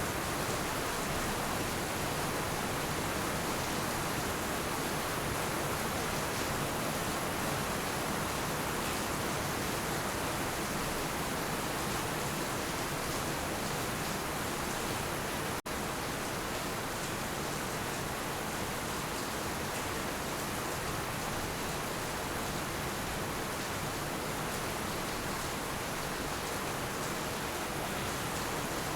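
Heavy rain falling steadily, an even hiss without a break except for a momentary dropout about halfway through.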